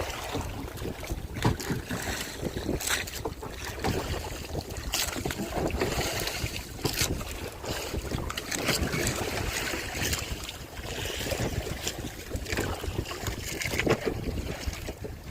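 Wind rumbling on the microphone over water sloshing, with scattered knocks and splashes.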